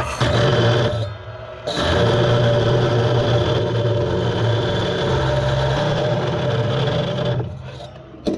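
Power saw cutting steel square tubing, with a steady motor hum under the cutting noise. It runs about a second, drops briefly, then runs steadily for about six seconds before trailing off near the end.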